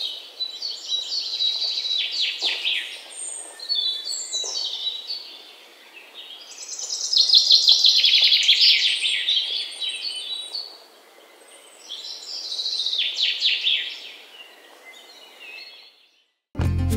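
Birdsong: several birds chirping in quick, falling trills, in bouts with short lulls about six and eleven seconds in, fading out near the end.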